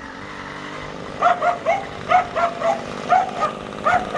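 A dog barking repeatedly from about a second in, in short quick runs of two or three barks. Under the barks runs the steady sound of the NSU motor-bicycle's small MAW engine.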